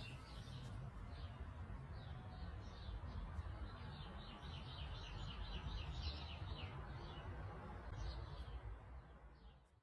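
Birds chirping, with a quick run of short, repeated high notes in the middle, over a steady low wind rumble on the microphone. The sound fades out at the end.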